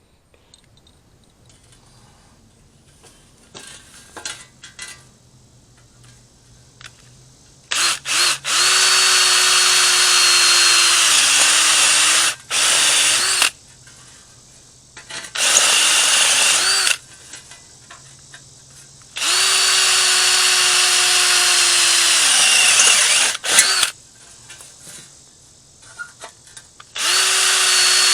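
A handheld electric power tool working the sheet-metal floor panel, run in about six bursts of one to four seconds with pauses between. Each burst holds a steady motor whine over a hiss, and the whine winds down in pitch as the trigger is released.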